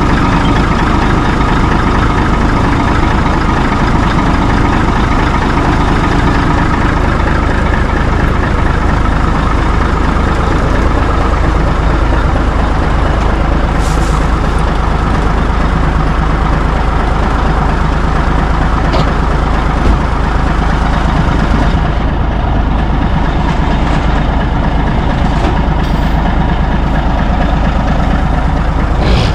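Heavy diesel truck engine running steadily and loud, its low rumble unchanging throughout.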